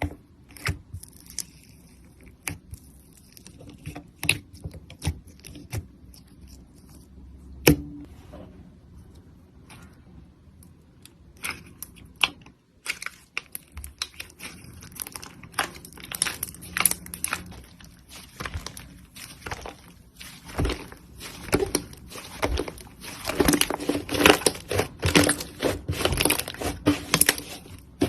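Slime being squeezed and poked by hand, giving sticky crackling and popping clicks, scattered at first and coming thick and fast in the last several seconds.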